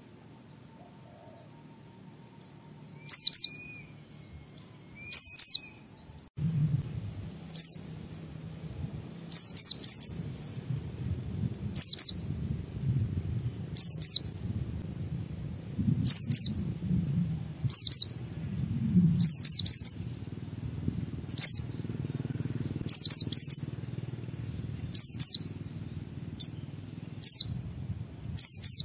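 White-eye (pleci) calling in short bursts of quick, high, falling notes, some doubled, about one burst every two seconds after a few quiet seconds of faint soft notes. A low background hum comes in about six seconds in.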